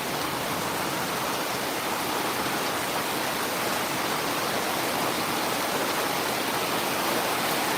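Heavy rain pouring steadily: an even hiss of rain and running water that hardly changes.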